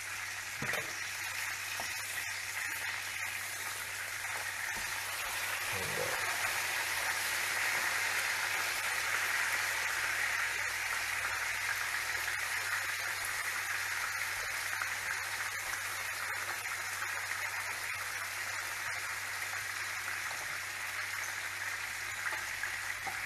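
Chicken frying in hot oil in a pan, a steady sizzle that swells a little midway and then eases.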